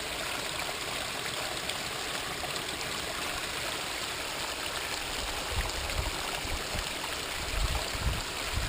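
Water from a backyard pondless waterfall splashing and trickling steadily over rocks, kept running by a submersible pump. Uneven low rumbles join in during the second half.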